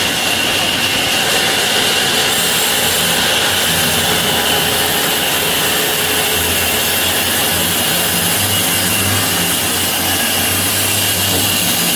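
Sawmill saw cutting through a tree branch: a steady, loud cutting noise with a constant high whine over it.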